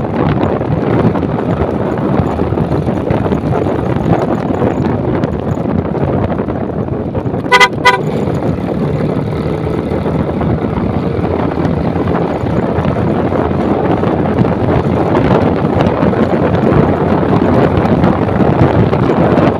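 Wind rushing over the microphone on a moving motorcycle, with two short horn beeps in quick succession about seven and a half seconds in.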